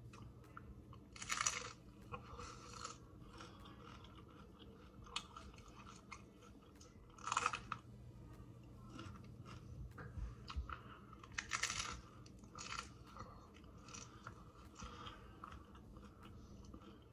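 A person biting into and chewing crunchy hard-shell tacos: three loud crunching bites, about a second in, around 7 seconds and around 11 seconds, with quieter chewing and mouth clicks between them.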